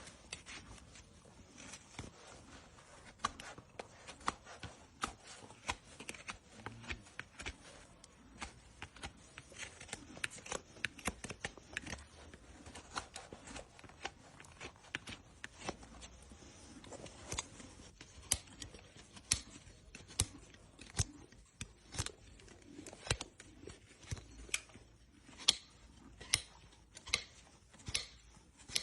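A horse's overgrown hoof being trimmed: a long series of sharp, crisp snips and cracks as the trimming tools cut through the hoof horn. The cuts get louder and more regular, about one a second, in the second half.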